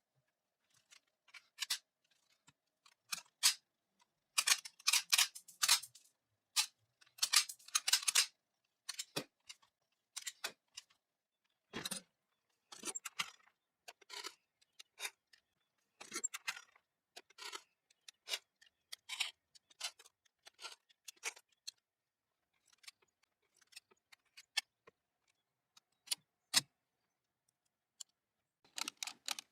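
Irregular sharp metallic clicks and short scrapes, with a dense run of scraping a few seconds in, typical of small gun parts and hand tools being handled during a restoration.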